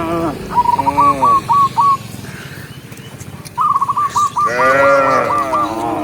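Cattle mooing: one moo trailing off at the start, another about a second in, then a short lull before a long moo near the end. Quick repeated chirps, about five a second, come alongside the moos.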